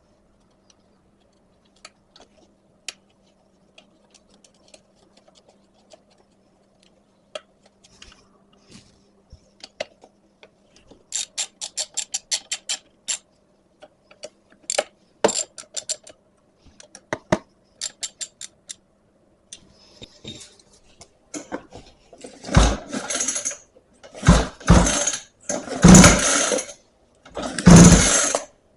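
Scattered clicks and a quick run of clicks as the recoil starter is fastened back on, then four pulls on the recoil starter's pull cord of a 49cc mini ATV, each loud and about a second long. The cord now draws out and rewinds freely instead of sticking.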